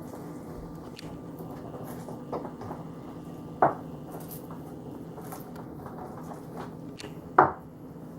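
Kitchen work sounds: a few short knocks of things being handled and set down, two of them sharp and loud, about three and a half seconds in and near the end, over a steady hum.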